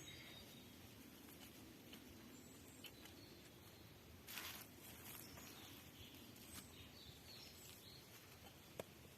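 Near silence: faint room or outdoor ambience, with a brief rustle about halfway through and a single sharp click near the end.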